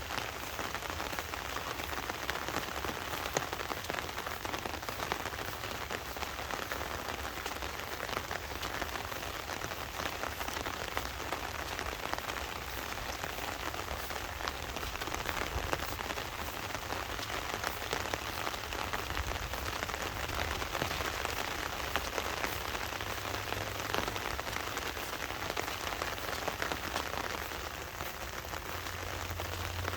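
Heavy monsoon rain falling steadily: a dense, even hiss dotted with the ticks of individual drops.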